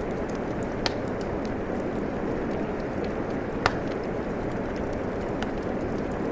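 Steady rain falling, with a wood fire crackling over it: scattered small ticks and two louder pops, one about a second in and one past the middle.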